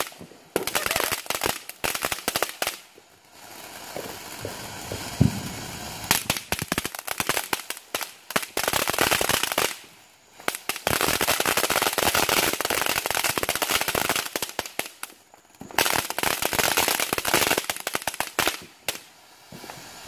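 Consumer fireworks going off in long runs of rapid crackling pops, which stop briefly three times.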